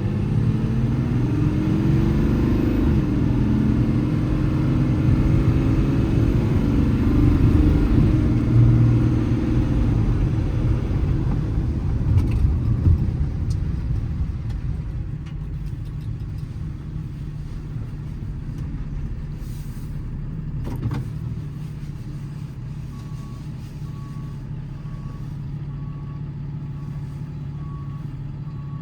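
Ram 5500's Cummins 6.7-litre turbo-diesel inline-six pulling away and accelerating, its pitch climbing and dropping through the gear changes, then settling to a low steady running. Near the end a reversing alarm starts beeping, about once a second.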